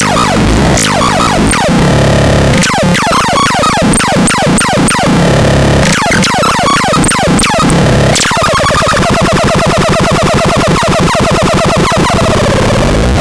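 Electronic synthesized sound effects from the KASMAX: a string of quick falling zaps over a steady low drone, switching about eight seconds in to a fast, even, warbling repeated tone.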